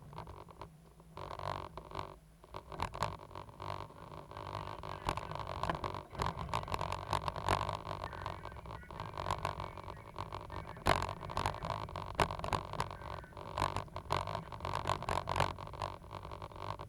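Cat 320GC excavator's diesel engine running steadily under many irregular knocks, clanks and scrapes.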